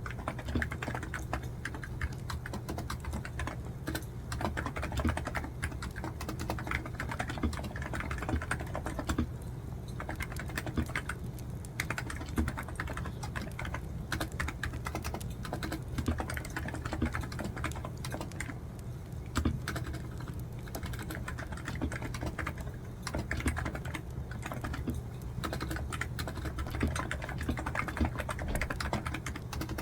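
Continuous typing on a computer keyboard: quick, irregular key clicks over a steady low hum.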